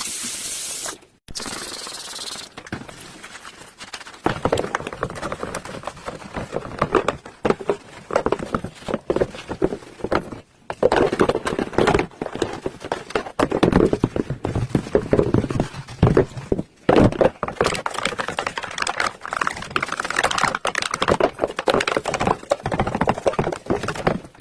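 Vacuum cleaner filter being cleaned by hand: irregular scraping, tapping and plastic clatter. It follows a brief steady hiss at the start that cuts off about a second in.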